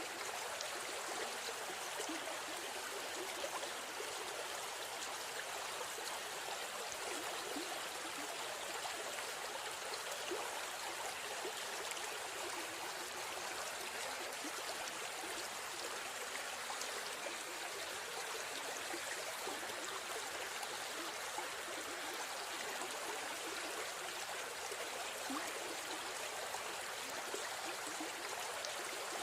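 A river stream running and trickling over stones, a steady rushing with small bright splashes throughout.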